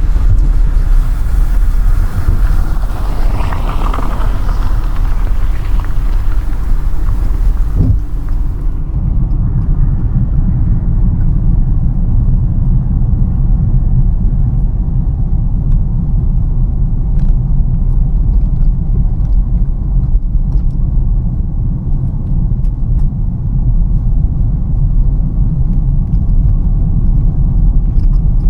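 Steady low road and engine rumble inside a moving car's cabin. A rushing hiss on top swells about four seconds in and drops away suddenly about nine seconds in, leaving the deep rumble alone.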